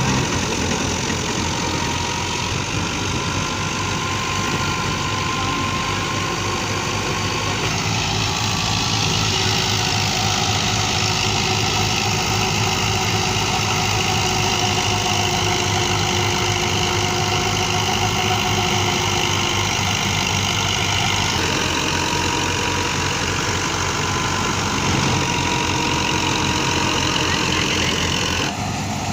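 Diesel tractor engine running steadily under load while driving a wheat thresher. A rushing, higher-pitched noise swells over it about a quarter of the way in, eases about two-thirds of the way through, and rises again near the end.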